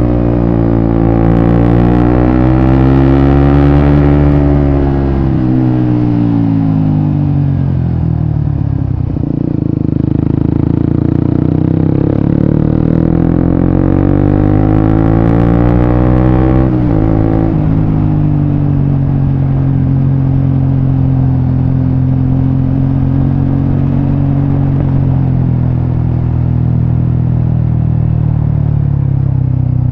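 Suzuki GSX-S150's single-cylinder engine running through an aftermarket Quinze Big Volume 35 cm exhaust. The revs rise and fall twice, drop sharply at about seventeen seconds in, then hold steady.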